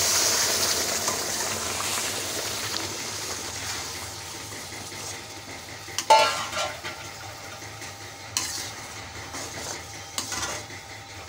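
Hot sugar syrup poured into semolina and coconut frying in ghee in a pan, sizzling loudly and dying down over the first few seconds. A spoon then stirs and scrapes the thickening mixture, with a sharp knock against the pan about six seconds in and lighter knocks after.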